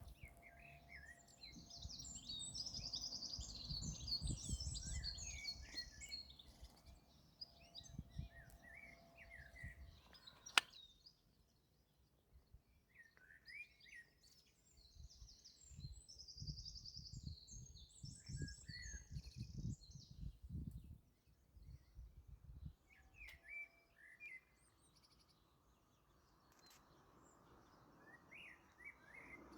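Small songbirds singing outdoors in long bouts of rapid chirps and trills, with a low rumble on the microphone under them. One sharp click comes about ten seconds in.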